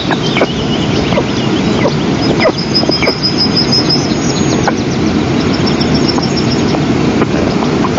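Steady rushing wind noise on an outdoor microphone, with high bird chirps and trills over it.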